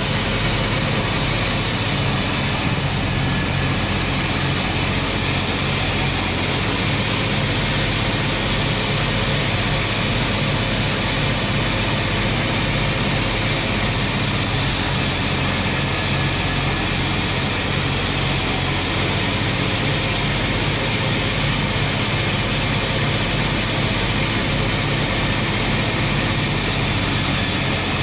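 Engine-driven wood-sawing machinery running steadily, with a constant low hum under a strong hiss. The hiss shifts abruptly in brightness a few times.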